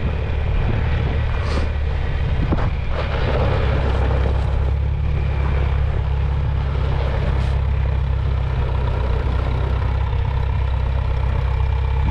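Old John Deere tractor engine running steadily as the tractor is driven. It is a deep, even hum with a few faint knocks in the first few seconds.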